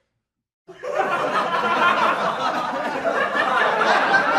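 A crowd laughing together, like an audience laugh track, starting abruptly after a moment of silence and carrying on steadily.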